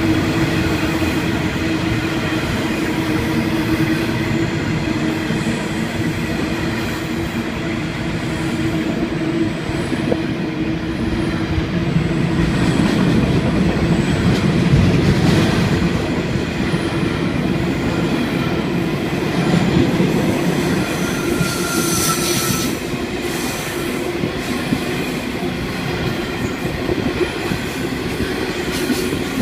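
Freight train hauled by 82 class diesel locomotives rolling past: a steady engine drone over rumbling, clattering wheels, with brief high wheel squeals about 15 and 22 seconds in.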